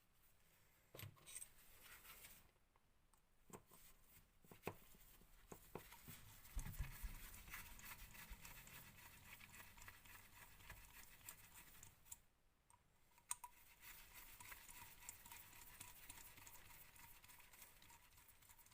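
Faint clicks, taps and light scraping of small metal engine parts and screws being handled and driven in with a hand hex driver, with one dull knock about six or seven seconds in.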